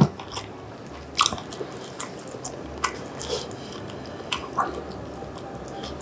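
Close-miked chewing of bean sprout, fish cake and glass noodle japchae, with scattered crisp crunches from the bean sprouts and wet mouth sounds.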